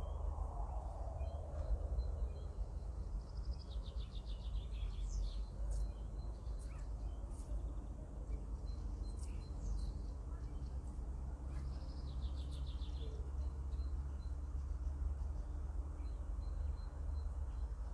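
Small birds chirping, with two short fast trills about eight seconds apart, over a steady low rumble.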